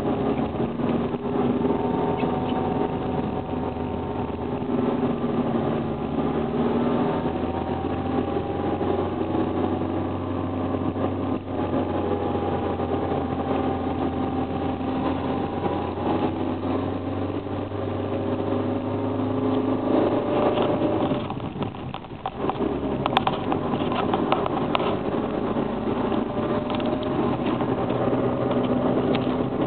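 Toyota Corolla 1.6's four-cylinder petrol engine running as the car is driven, its pitch drifting gently with speed. The engine note drops away briefly about two-thirds of the way through, then picks up again, with a few clicks and knocks after that.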